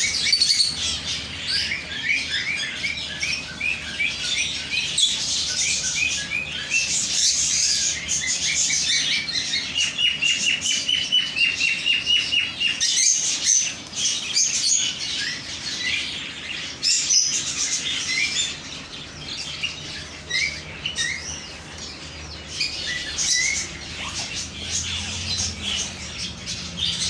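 Many small birds chirping together in a dense, overlapping chorus of short high chirps, with one longer whistled note near the middle.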